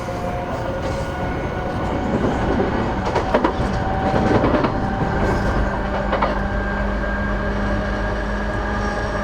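E233-8000 series electric train running, heard from inside the passenger car: a steady rumble of wheels on rail with the whine of the motors. Between about two and five seconds in, the wheels clack over rail joints, and a steady low hum sets in after that.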